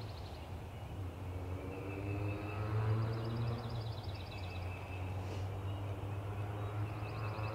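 Wild turkey gobbling twice, a few seconds apart, each a fast rattling call, over a steady low hum.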